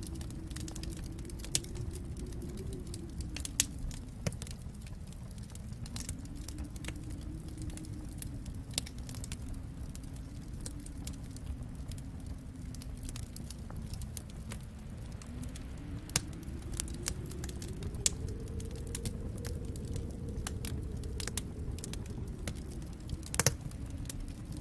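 Wood fire crackling in a fireplace: irregular small snaps and pops, one sharper pop near the end, over a low rumble that slowly swells and fades.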